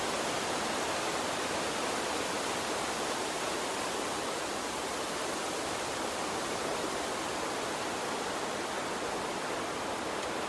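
Gentle water stream flowing: a steady, even rush of water.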